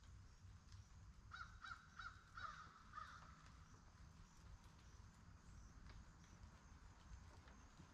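A bird calling faintly, a quick run of about five or six short calls in under two seconds, over a steady faint low rumble.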